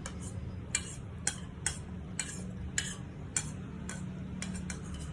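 A spoon clinking and scraping against a bowl as porridge is scooped out: a series of short sharp clicks, a few coming close together near the end.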